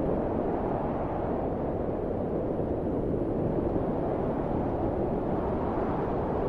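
Steady, low wind, a deep even rush with no gusts or breaks.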